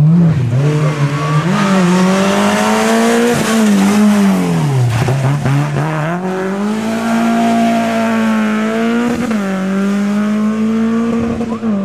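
Rally car engine revving hard and climbing through the gears, with its pitch dropping sharply as the driver brakes and shifts down for a corner before it pulls away again.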